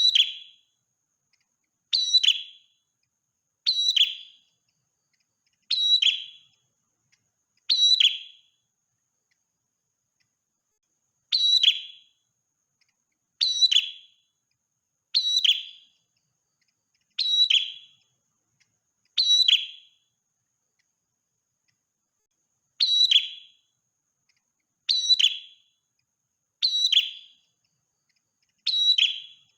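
Prenjak merah, a small Indonesian songbird, giving a short, sharp, high call about every two seconds, with two longer pauses. Each call drops quickly in pitch.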